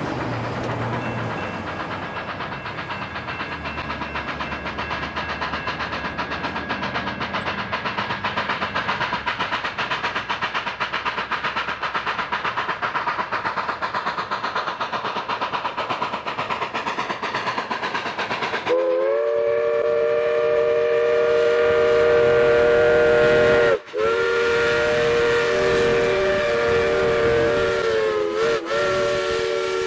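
Narrow-gauge steam locomotive No. 476 running with a fast, even rhythm. About two-thirds of the way in, its chime whistle sounds a long blast of several tones at once, broken off briefly near the end.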